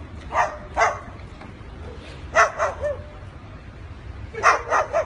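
Parrot imitating a dog's bark: short yaps in quick groups of two or three, repeated three times.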